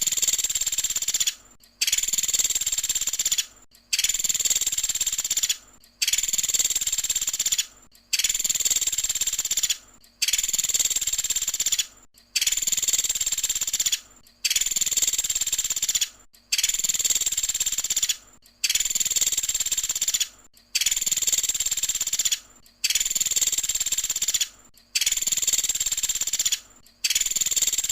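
Recorded song of a pelatuk sampit bird: a high, rapid trill in phrases of about a second and a half, repeated with short gaps roughly every two seconds. The phrases are so alike that the song is looped as a training track.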